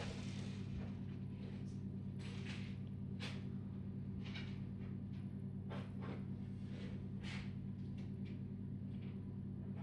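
Faint scattered rustles and light knocks of objects being handled, over a steady low hum.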